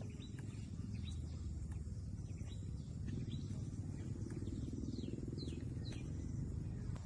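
Short, high, downward-sliding bird chirps, about ten scattered irregularly, over a steady low rumble.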